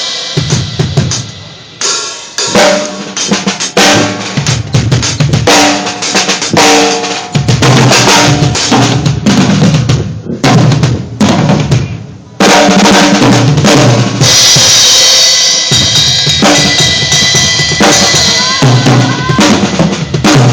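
Drum kit played loudly, with bass drum thumps, snare hits and a stretch of bright cymbal wash about two-thirds of the way in, alongside pitched notes from other instruments.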